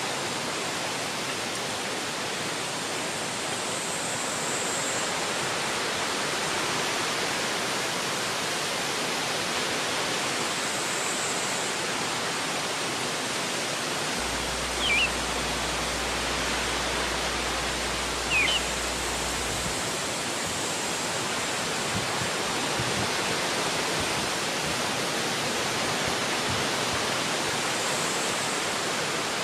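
Wind blowing steadily through forest trees, an even rushing. Two brief high chirps come in about halfway through, a few seconds apart.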